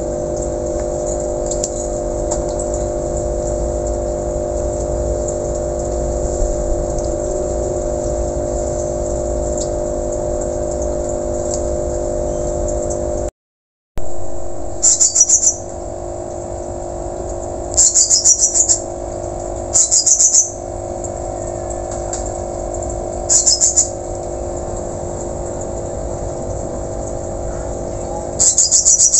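Whistling thrush (ciung batu) giving five short, shrill high calls, each a quick run of notes lasting under a second, spread through the second half. A steady low hum runs underneath, and the sound cuts out for about half a second just before the calls begin.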